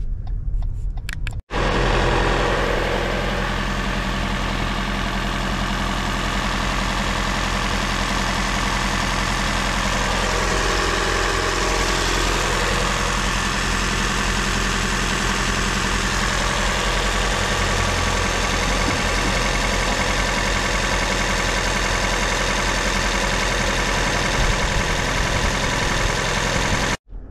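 Lexus NX hybrid's 2.5-litre four-cylinder petrol engine idling steadily, heard from the open engine bay. A few clicks come before it, in the first second or so.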